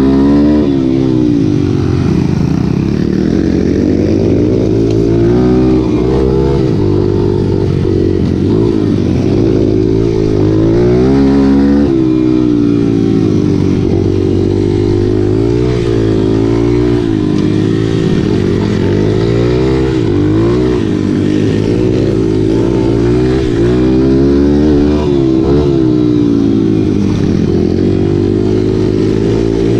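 Several racing motorcycle engines revving, their pitches rising and falling and overlapping as the bikes accelerate and back off.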